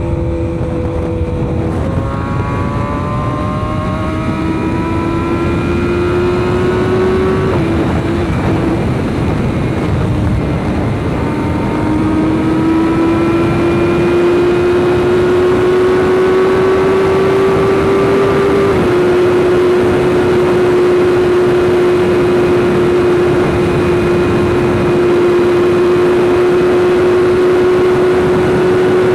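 BMW S1000RR's inline-four engine pulling under way: its pitch climbs steadily, drops at a gear change about two seconds in and again around eight seconds, climbs for several seconds more, then dips and holds steady at cruise, over steady wind noise.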